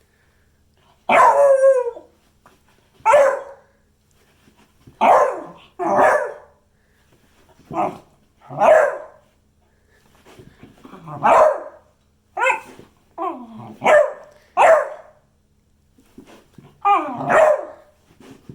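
A beagle barking about a dozen times, the barks a second or two apart. Some are drawn out into short yowls that bend in pitch.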